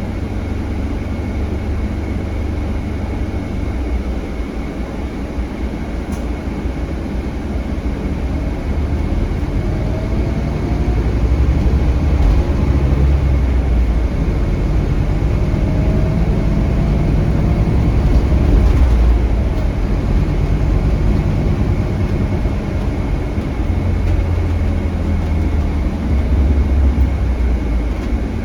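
Inside a Scania K320HB bus under way: the rear-mounted Scania DC9 five-cylinder diesel running under a steady low rumble of road noise. It grows louder through the middle, with faint rising whines, then eases off.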